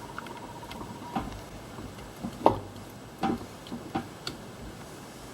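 Irregular light clicks and knocks of parts and tools being handled, about a dozen over several seconds, the loudest about two and a half seconds in.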